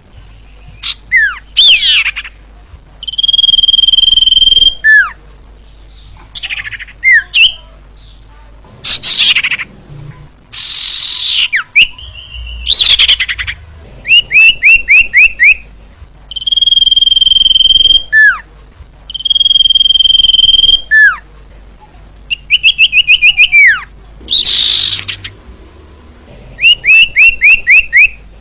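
Common iora (cipoh) singing in phrases with short pauses: long steady whistles of about a second each, quick strings of short rising notes, downward-sliding whistles and harsh rasping calls.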